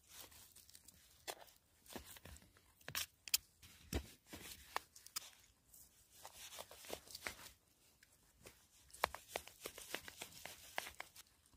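Someone tasting and chewing pieces of sirloin beef salad: quiet, irregular small clicks and crunches, close to the microphone.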